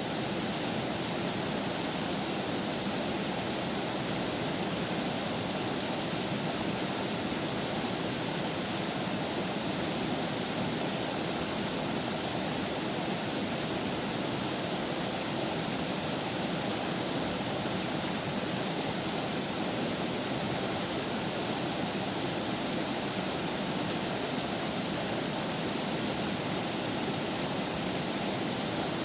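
Steady rushing of a flowing river, an even, unbroken wash of water noise.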